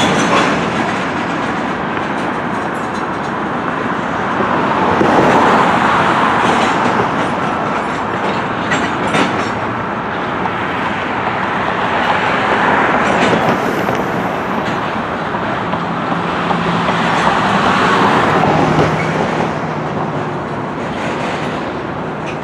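Freight train's tank cars and covered hopper rolling past, steel wheels rumbling and clicking over the rail joints, the sound swelling and easing every several seconds.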